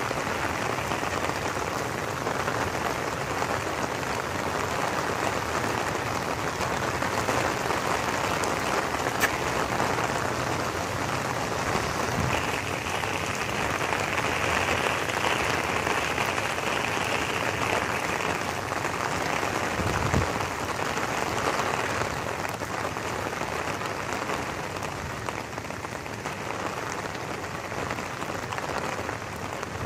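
Steady rain falling on wet stone paving, an even hiss with no break.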